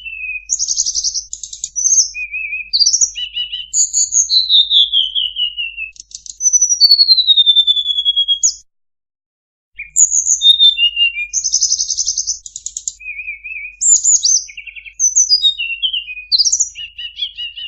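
Tledekan bird song played as a lure recording: high, clear whistled phrases, many sliding downward, alternating with rapid trills, with a break of about a second roughly nine seconds in before the song resumes.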